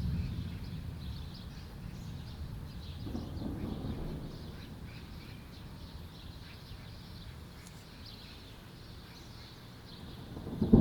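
Low thunder rumbling and dying away, with another low rumble about three seconds in, while birds chirp faintly. A loud thunderclap breaks right at the end.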